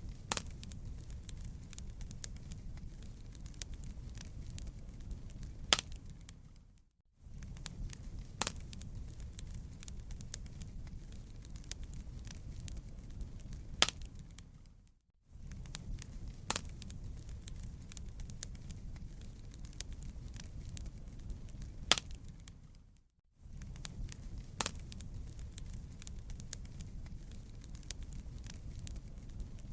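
Crackling wood fire in a fireplace: a steady low rumble under scattered sharp pops and snaps, with a louder pop about every eight seconds. The sound cuts out for a moment roughly every eight seconds, as a short recording repeats.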